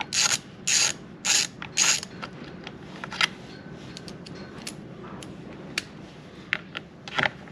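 Socket ratchet working a loose carburetor mounting nut off a Stihl MS390 chainsaw. The pawl rasps in four quick back-and-forth strokes over the first two seconds, followed by scattered light clicks and one more short rasp near the end.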